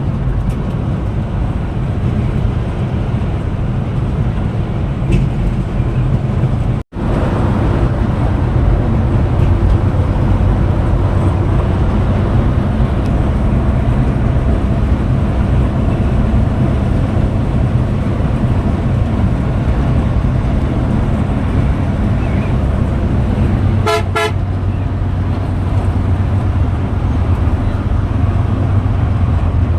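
Steady low drone of a Scania Metrolink multi-axle coach cruising on the highway, heard from inside the bus. A vehicle horn gives a short toot late on, and the sound cuts out for an instant about seven seconds in.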